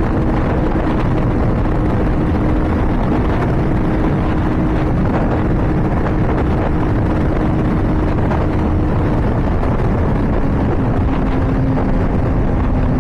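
Honda CBR600RR's inline-four engine running hard at high speed, its note held steady and slowly dropping in pitch, under heavy wind rush on the rider's microphone.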